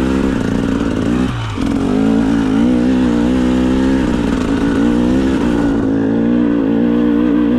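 2025 GasGas EC 300 two-stroke dirt bike engine running at fairly steady revs, its pitch wavering as the throttle is worked, with a brief drop off the throttle about a second and a half in.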